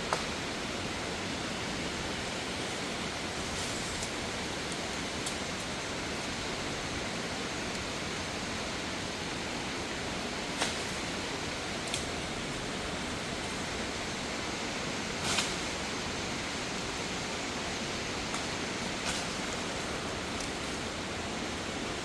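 Waterfall cascading over rocks: a steady, even rush of falling water, with a few brief clicks scattered through it.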